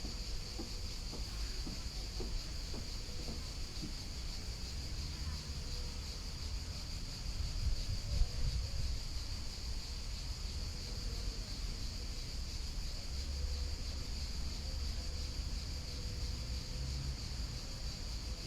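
Outdoor nature ambience: a steady, high-pitched insect chorus over a low rumble of flowing river water, with a few faint ticks in the first few seconds.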